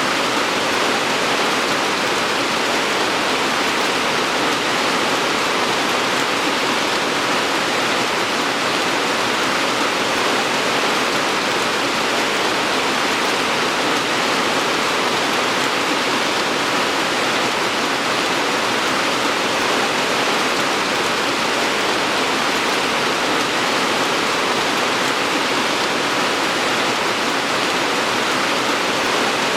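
Steady rain falling, a dense even hiss without single drops standing out.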